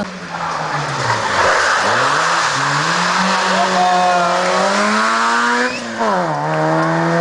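A Citroën Saxo rally car's engine, first dropping in revs as the car slows, then revving up hard through the gears, with a sharp drop in pitch near the end as it changes up before pulling again.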